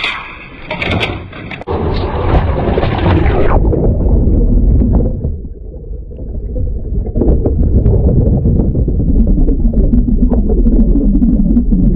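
Land Rover driving, a loud, deep rumble. A hissing noise over it stops about three and a half seconds in, leaving the low rumble alone.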